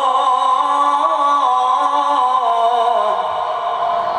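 A male qari's voice in melodic Qur'an recitation, drawing out the final word "Allah" as one long held note. The note wavers with ornaments, steps down in pitch in its second half, and fades slightly near the end.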